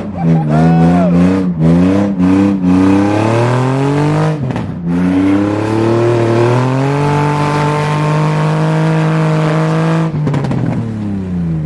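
Nissan 350Z's VQ35DE V6 running open headers, revved hard in quick blips, then climbing and holding high revs for a few seconds before falling away near the end, heard from inside the cabin.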